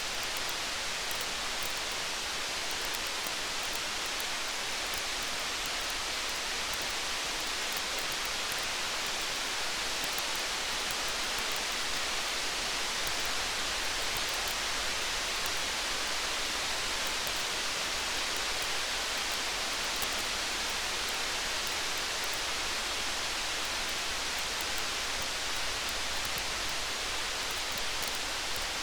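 Steady rain as an even hiss, mixed with a campfire whose crackles come through as faint small ticks throughout.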